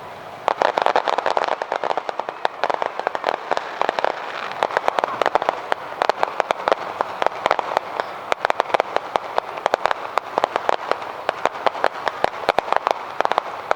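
Fireworks crackling: a dense, rapid run of sharp pops and snaps that starts about half a second in and keeps going.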